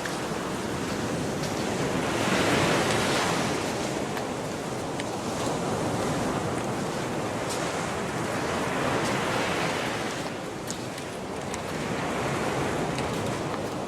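Gulf of Mexico surf: small waves washing onto the beach in a steady hiss that swells about two seconds in and again near ten seconds.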